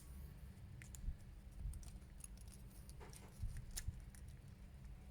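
Faint scattered clicks and light taps of small plastic action-figure parts being handled and fitted together, over a low steady hum.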